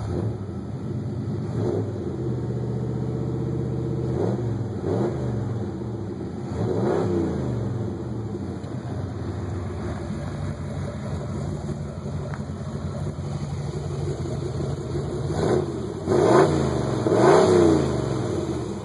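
Chevy 355 small-block V8 idling through Cherry Bomb mufflers, blipped up in several quick revs that rise and fall back to idle, a few a little past the start and again near the end, with steady idle between.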